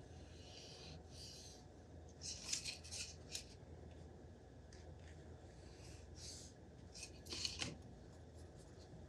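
Faint, scattered short scraping and snipping sounds of small tools and parts being handled at a workbench, in two busier clusters, over a steady low hum.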